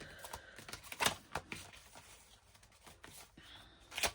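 Paper tags and cardstock pieces being sorted and shuffled by hand: light rustling and small clicks, with two sharper taps about a second in and near the end.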